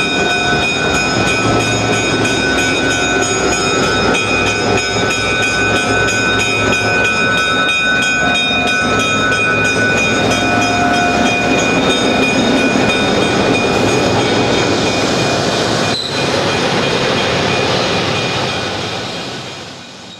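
A train running on the rails: a steady rumble and rush with several high, steady whining tones over it. The sound fades away near the end.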